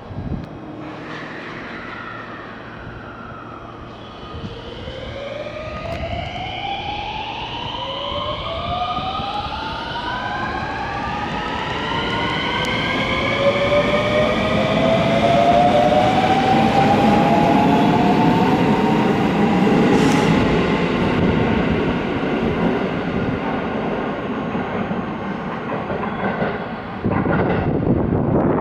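Electric train pulling away from a station platform. Its traction motor whine climbs steadily in pitch as it accelerates, then levels off over the rumble of the wheels on the rails.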